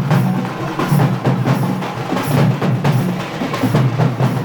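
Fast drumming: many quick, sharp strikes in a dense, steady rhythm with a strong low body.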